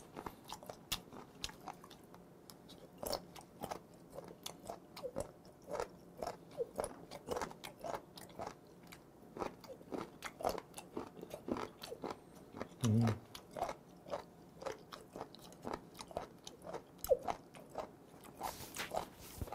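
Close-miked chewing of raw abalone: a steady run of short, crisp crunching clicks as the firm flesh is bitten and chewed, with a brief low hum about two-thirds of the way through.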